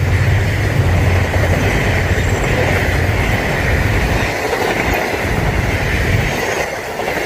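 Passenger train coaches rolling past at speed, wheels running on the rails with a steady high ringing over a low rumble that thins out about four seconds in.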